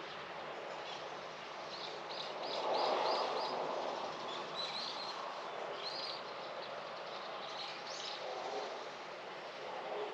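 Small birds chirping in quick runs of short repeated notes, over a steady outdoor background hum that swells briefly about three seconds in.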